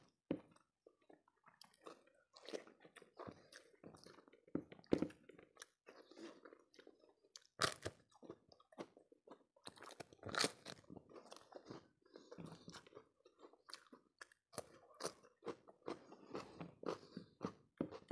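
Close-miked chewing and biting with crisp crunches, from fried papad (poppadom) being bitten and chewed. The two loudest crunches come near the middle.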